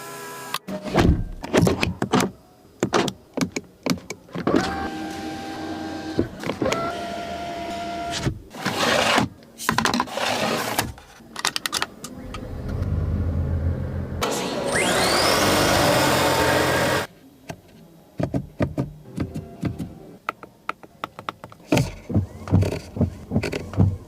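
Volvo S90's electric motors whirring in short runs, one of them rising in pitch, among many clicks and clunks from the car's controls and fittings.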